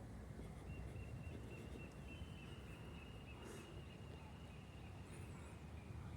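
Outdoor ambient noise with a thin, high, steady trill that starts about a second in and runs for about five seconds, like an insect or bird.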